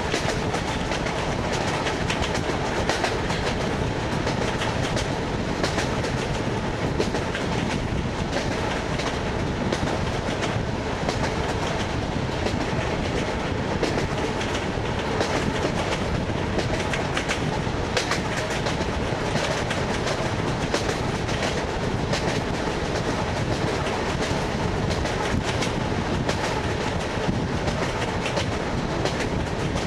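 Wheels of an ED9M electric multiple unit clattering over the joints of jointed rail track: a steady clickety-clack over the train's running noise.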